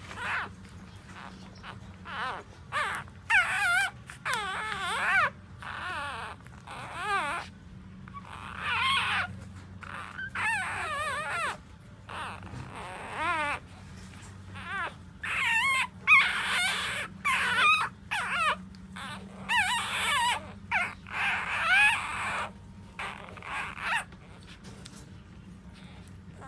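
Newborn puppies, about four days old, whimpering and squealing in many short, high, wavering cries, some overlapping, that die away a couple of seconds before the end. A steady low hum runs underneath.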